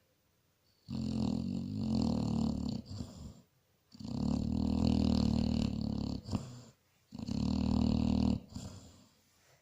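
Basset hound snoring: three long snores, each lasting two to three seconds, with short quiet breaks between them.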